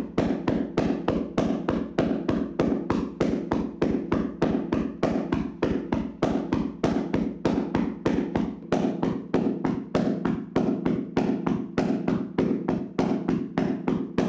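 Hands rhythmically slapping and tapping on a person's body during a percussive massage, a steady fast run of dull slaps at about four a second.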